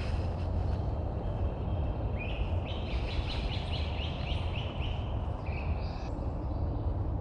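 A songbird singing: a brief phrase at the start, then a run of about ten quick, evenly repeated notes a couple of seconds in, and another short phrase near the end. A steady low rumble lies under it throughout.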